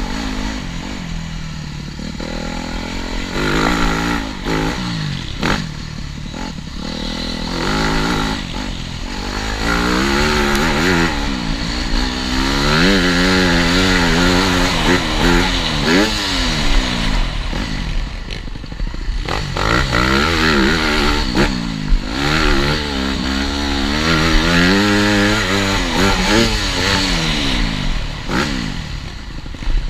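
TM Racing 250 Fi motocross bike's engine revving hard, its pitch climbing with each burst of throttle and dropping back again and again, with a couple of short lulls off the throttle.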